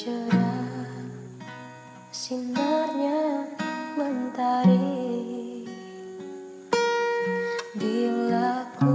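Acoustic guitar playing a slow plucked introduction, one note or chord at a time.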